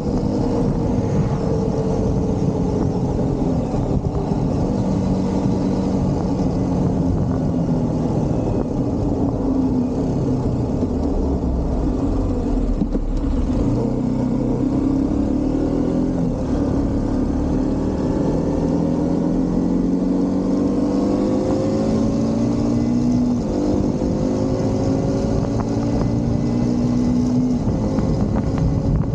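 Motorcycle engine running under way, its pitch sinking slowly, then climbing again as it pulls, with a brief sharp dip about three-quarters of the way through. A dense low rumble runs underneath.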